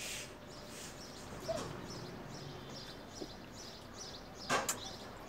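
Faint birds chirping in quick repeated notes in the background of an otherwise quiet room, with a short puff of noise about four and a half seconds in.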